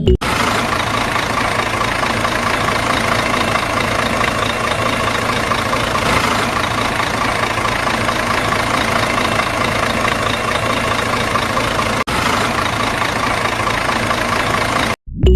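A small motor running steadily with a dense, rattling mechanical noise. It breaks off for an instant about twelve seconds in and stops shortly before the end.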